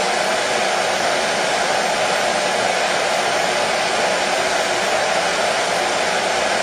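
Hair dryer running steadily: a constant rushing hiss, strongest in the middle range, used as white noise to soothe a colicky baby to sleep.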